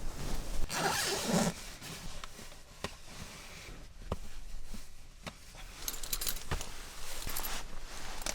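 A zipper being pulled in short runs, loudest about a second in and again in quick strokes near the end, with fabric rustling and a few light knocks between.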